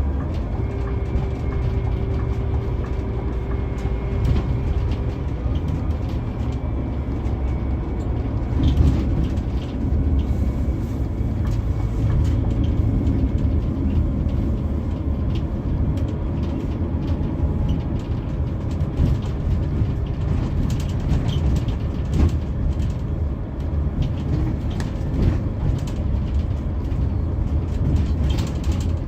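A Scania K360EB4 coach under way, its engine and road rumble running steadily, with many small rattles and knocks throughout.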